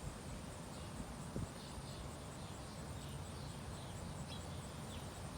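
Faint outdoor ambience: a steady low rumble with faint, short high chirps scattered through it and a faint, even ticking very high up.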